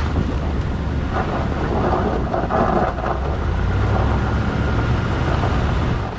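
A Power Wagon pickup truck driving on an unpaved forest road: a steady low rumble of engine and tyre noise.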